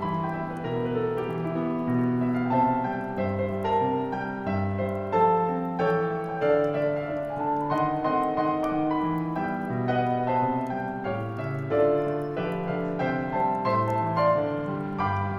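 Solo piano playing a gentle Christmas song arrangement, a slow melody over chords and a moving bass line.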